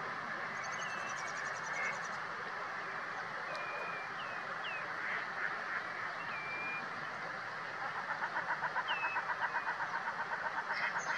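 Wild birds calling over a steady hiss: short whistled notes every second or two, and from about eight seconds in a rapid pulsed call repeating about four or five times a second.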